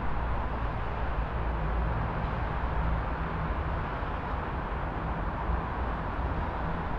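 City traffic ambience: a steady low rumble of vehicles with an even hiss of road noise.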